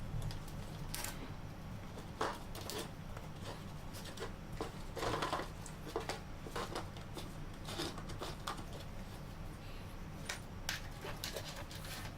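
Debris rattling and ticking irregularly as it is sucked through a Dust Deputy cyclone separator, over the low steady hum of the running shop vac. There are bunches of clicks about two seconds in, around five seconds and near the end.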